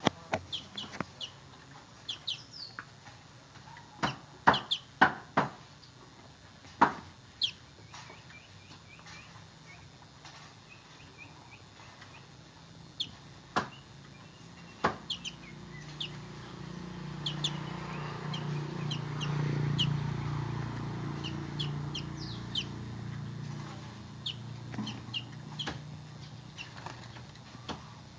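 Javan bush lark (branjangan) giving short, sharp chirps and quick twittering chatter at irregular intervals. A low hum swells up in the middle and fades away again.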